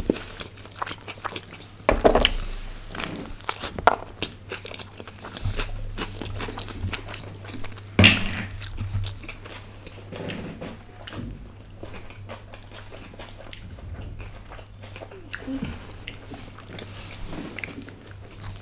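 Close-miked chewing and biting of cheesy pizza: soft, wet mouth sounds with many small irregular clicks, and two louder sharp sounds about two and eight seconds in.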